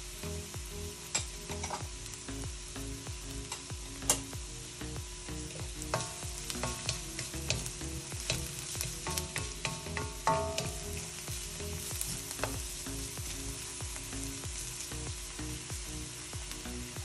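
Garlic and onion sizzling in hot olive oil while they are stirred, a steady frying hiss. Repeated clicks and clinks of the stirring utensil against the pot come mostly in the middle stretch, thickest around the halfway point.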